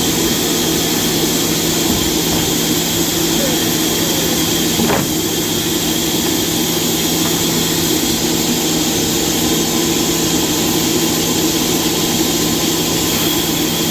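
Sawmill machinery running steadily: a loud, even mechanical drone with a constant low hum and a thin high whine.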